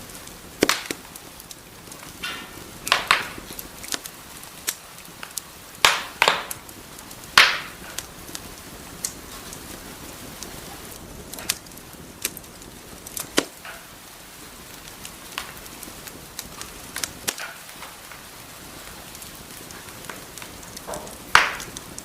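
Wood fire crackling in a fireplace: a steady soft hiss with irregular sharp pops and snaps from the burning logs, a handful of them louder cracks.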